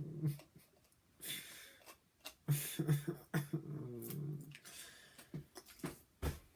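A man grunting, gasping and groaning in disgust at the taste of grape-flavoured bottled water, with harsh throaty noises, two sharp breathy gasps and a long falling groan. A short low thump comes near the end.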